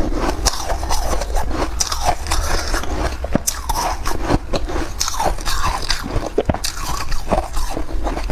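Close-miked crunching and chewing of soft white freezer frost: a rapid, irregular crackle of bites and squeaky crunches.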